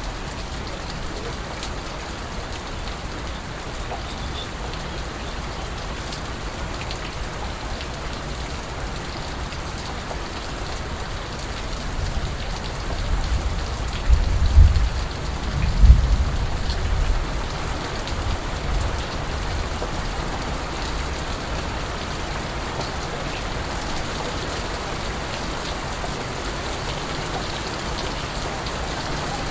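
Steady rain falling, with a low rumble that swells and fades about halfway through.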